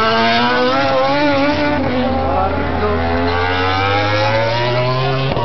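MotoGP racing motorcycle engine at high revs, its pitch climbing as it accelerates. The pitch drops sharply about two seconds in at a gear change, then climbs again.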